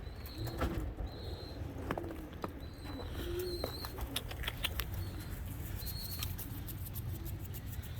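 Pigeons cooing low, with a few brief wing flaps and clicks and some short high chirps.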